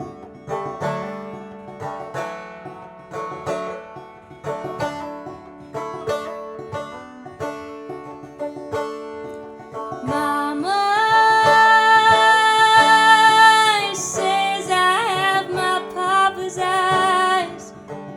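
A plucked acoustic string instrument plays steady picked notes of a folk song. About ten seconds in, a wordless sung vocal enters, holding one long note and then moving through a wavering melody over the picking.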